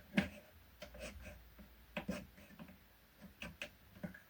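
Scattered light wooden knocks and clicks of plywood parts being handled and moved, the sharpest about a fifth of a second in and a few more spread through the rest.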